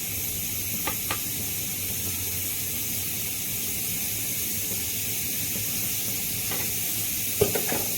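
Steady background hiss with a low hum, broken by two faint clicks about a second in and a few soft knocks near the end.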